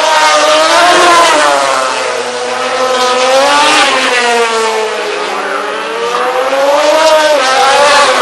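MotoGP racing motorcycles' 800cc four-stroke engines on the track, their pitch rising and falling several times as the riders accelerate and shift.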